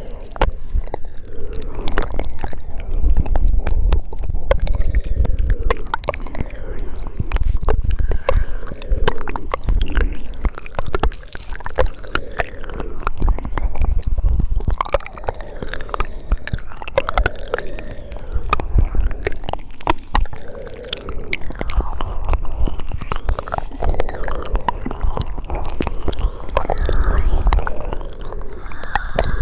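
Mouth sounds made close to the microphone: a continuous run of wet clicks, smacks and lip noises.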